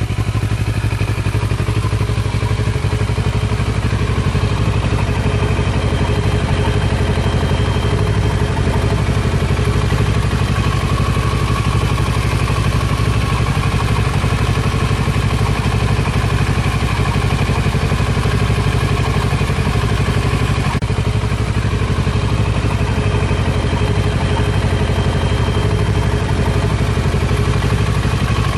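Kawasaki Versys 650 parallel-twin engine idling steadily through a newly fitted LeoVince SBK stainless-steel slip-on exhaust.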